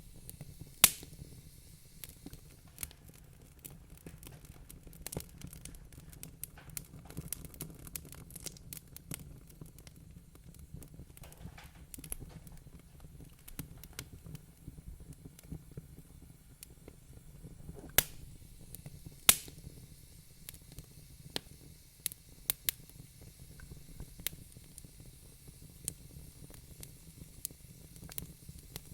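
Wood fire crackling in a fireplace: irregular small pops and ticks, with a few sharp loud snaps (one about a second in, two more about two-thirds of the way through), over a steady low rumble.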